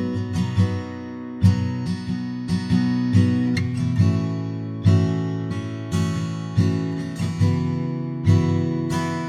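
Acoustic-arranged pop ballad music led by a strummed acoustic guitar, chords struck about once a second and left ringing.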